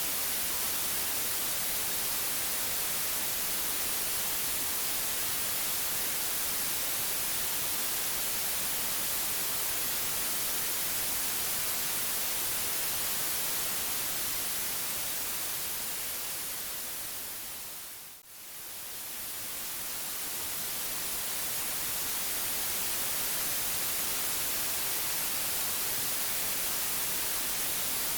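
Steady white noise, an even hiss across all pitches. About fourteen seconds in it fades down smoothly to a brief dip near eighteen seconds, then fades gradually back up to full level.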